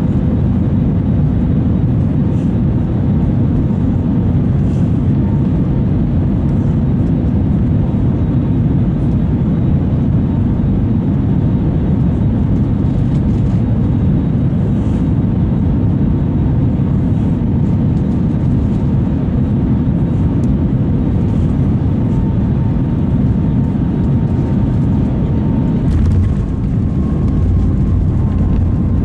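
Cabin noise of an Airbus A320neo airliner on approach: a steady low rumble of engines and airflow with a faint steady tone above it. Near the end the low rumble grows heavier.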